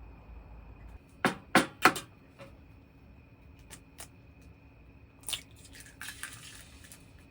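Three quick, sharp clacks of utensils or tableware about a second in, a few fainter clicks after, then a short hiss near the end.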